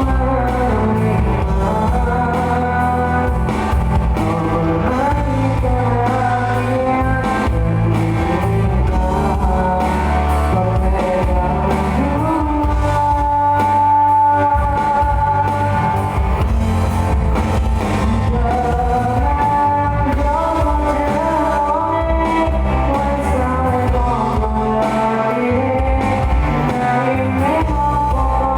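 Band music in a rock style with a singer, the bass steady; one long held note about halfway through.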